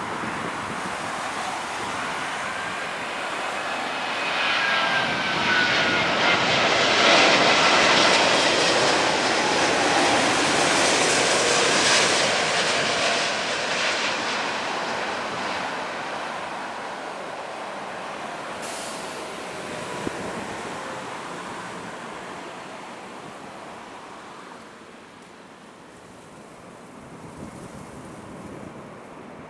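Airbus A380 jet engines (Rolls-Royce Trent 900s) coming in to land. The roar swells to its loudest about 7 to 12 seconds in, with a faint whine that drops in pitch as the jet goes by, then fades away.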